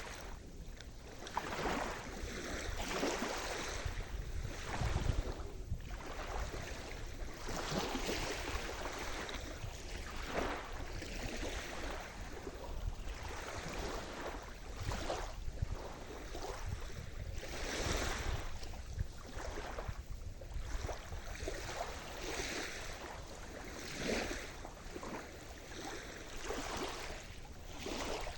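Sea surf: small waves breaking and washing in over and over, a continuous rushing wash that swells and falls every second or two, with some wind noise.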